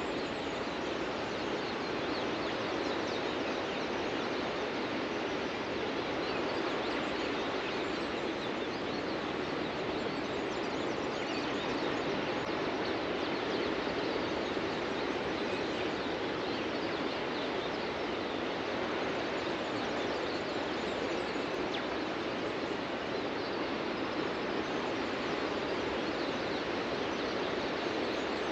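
Steady wash of ocean surf breaking on a beach, with faint bird chirps over it.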